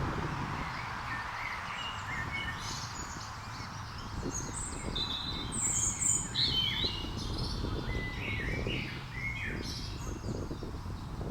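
Wild birds chirping and calling, with many short overlapping chirps and quick up-and-down notes scattered through, over a steady low rumble.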